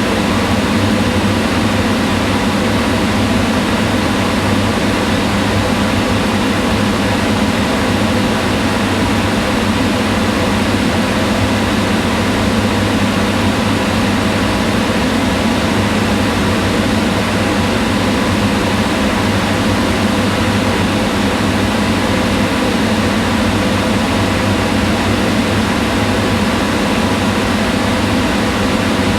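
Kitchen range hood exhaust fan running steadily: an even whirring hum of moving air with a faint motor tone, unchanging throughout.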